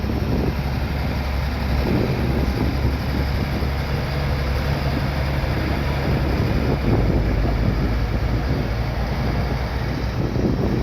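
Bulldozer's diesel engine running steadily under work, with wind noise on the microphone.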